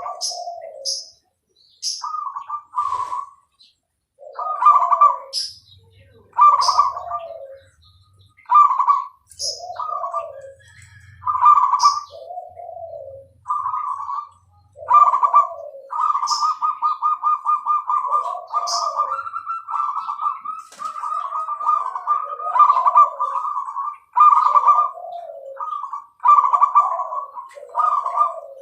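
Zebra doves (perkutut) cooing over and over in short rolling phrases, each ending in a lower falling note, with a longer unbroken run of cooing in the middle. Short high chirps of small birds sound between the coos.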